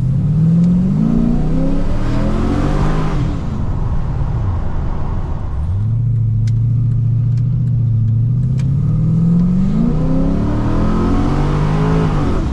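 Cammed LS1 5.7-litre V8 of a Holden SS Commodore heard from inside the cabin while driving, revving up hard and then dropping back. It holds a steady note for a few seconds and climbs in pitch again near the end.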